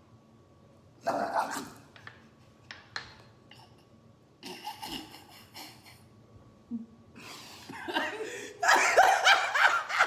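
People sputtering, gasping and laughing after downing a strong shot of liquor, with a few short clicks in between; the laughter and sputtering grow loud in the last few seconds.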